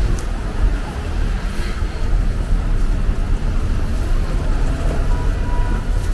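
City street traffic: motor vehicles running and passing, a steady low rumble with a hiss of road noise.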